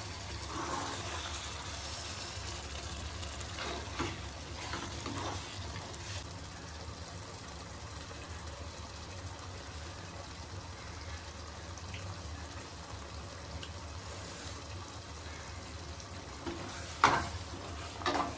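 Chicken masala frying in a steel pan on a gas stove: a steady low sizzle, with a few light clicks and knocks along the way.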